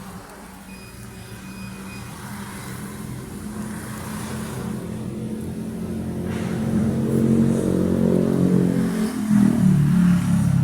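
A motor vehicle's engine running, growing steadily louder over several seconds as it draws near, with a change in pitch near the end as it passes.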